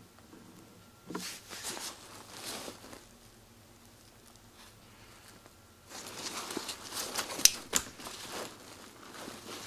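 Rustling and crinkling of a nylon rucksack being handled, in two bouts with a pause between, and a sharp click in the second bout.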